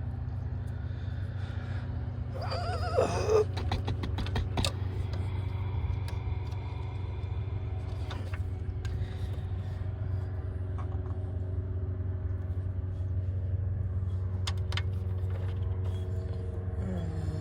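A steady low hum, with scattered light clicks and clinks of hand tools on metal and a brief wavering squeak about three seconds in.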